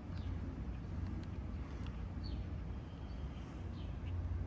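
Steady low background rumble with a faint bird chirp about two seconds in.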